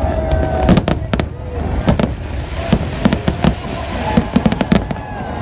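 Fireworks going off in quick, irregular bangs and crackles, several clustered close together, over a steady low rumble of distant bursts.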